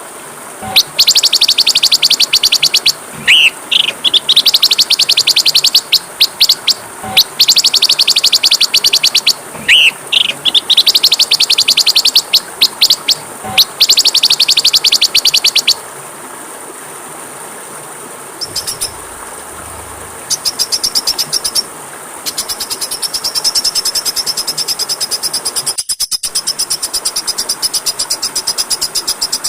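Small songbird singing long phrases of very fast, high trills, with a few short rising chirps between them, over a steady high insect-like hiss. Past the halfway point it goes quieter, then a higher, faster pulsing trill takes over.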